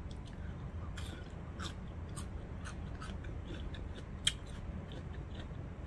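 Close-miked chewing and mouth sounds: a run of small, crisp clicks and crunches from food being chewed, with one louder snap about four seconds in, over a steady low hum.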